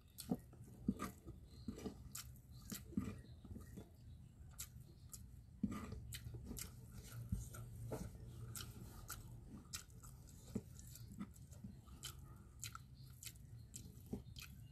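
Faint, close-up chewing of a person eating rice and salted fish by hand, with many small clicks at an irregular pace.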